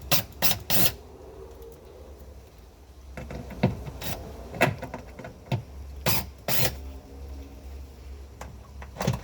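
Screws being backed out of a cabinet plate with a square-bit driver: a series of short squeaks and clicks, scattered irregularly.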